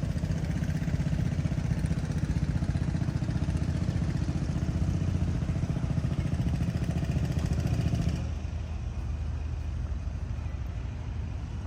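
An engine running close by with a rapid low throb, cutting off abruptly about eight seconds in and leaving a quieter low rumble.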